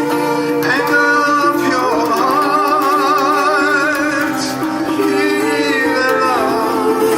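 Unplugged duet song: a man's and a woman's voices singing long notes with vibrato over acoustic accompaniment.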